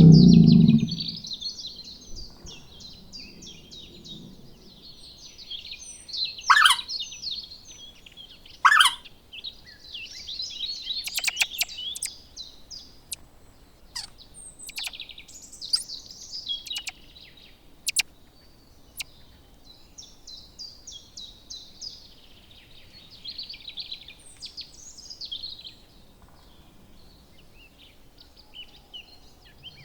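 Small birds chirping and singing in a dense, continuous chorus of trills and quick high calls, with a few sharp, sweeping notes standing out. A loud, low sound opens it right at the start.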